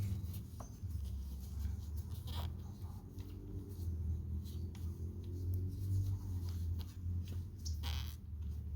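Rubbing and light scraping as a motorcycle part is wiped clean by hand, with scattered small clicks of handling, over a steady low hum.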